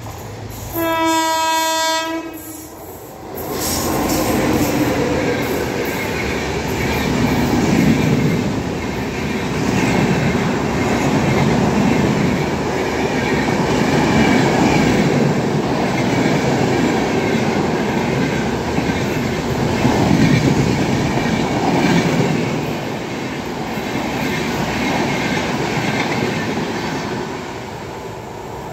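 WAP-7 electric locomotive's horn sounds one blast of about a second and a half. The express then passes close by at speed with a loud, steady rumble and wheel noise from its AC coaches, easing slightly near the end as the last coach goes by.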